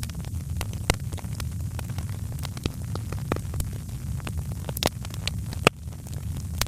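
Wood fire crackling in a fireplace: scattered sharp snaps and pops over a steady low rumble, with one louder pop near the end.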